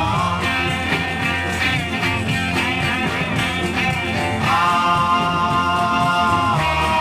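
Instrumental break of a 1960s British R&B beat record: electric organ playing quick runs, then holding a chord from about four and a half seconds in, over bass guitar and drums, with no vocals.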